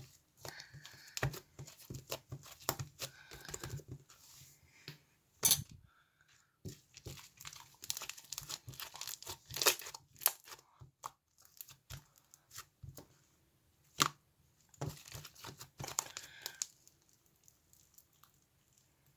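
Crinkly material being handled in irregular bursts of crinkling and rustling, with sharp clicks and taps between; three clicks stand out as loudest, about five and a half, ten and fourteen seconds in.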